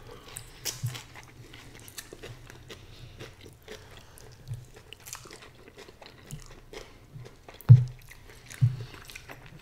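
Close-up chewing and biting of people eating stir-fried egg noodles with beef and fresh greens, with many small mouth clicks. Two low thumps, the loudest sounds, come near the end, about a second apart.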